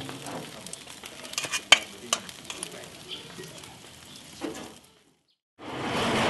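Food sizzling as it fries, with scattered sharp clicks and taps of utensils. After a brief gap, a louder steady noise starts near the end.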